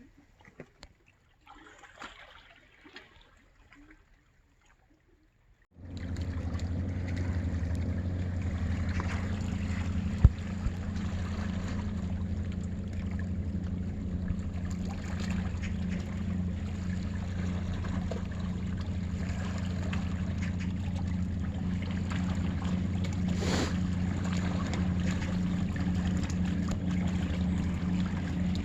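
A boat's engine running with a steady low drone. It starts abruptly about six seconds in, after a few faint clicks, and a single sharp click comes about ten seconds in.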